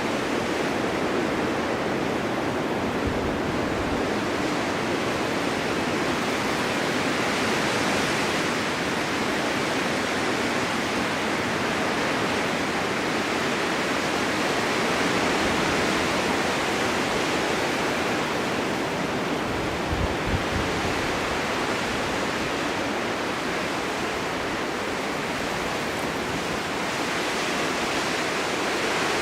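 Blizzard wind blowing snow, a dense, steady rushing hiss that swells and eases slowly, with a brief low gust rumble about twenty seconds in.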